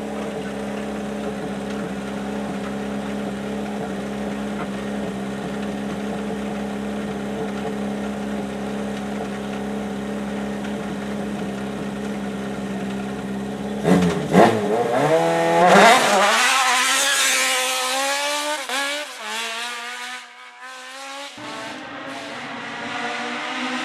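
Hill-climb race car engine holding a steady note, then launching hard about two-thirds of the way in: the engine revs climb in steps through several quick upshifts, with sharp crackles, and the sound drops away within a few seconds.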